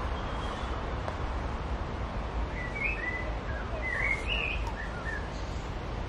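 A songbird sings a short, twittering phrase of quick chirps in the middle, over a steady low background rumble of outdoor noise.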